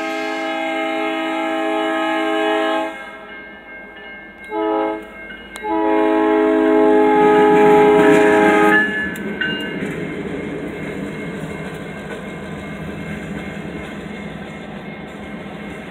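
Alaska Railroad diesel locomotive's horn sounding a chord in a long, a short and a long blast, the end of the long-long-short-long grade-crossing signal. After the last blast the empty coal hopper cars roll through the crossing with a steady rumble and wheel clatter that slowly eases.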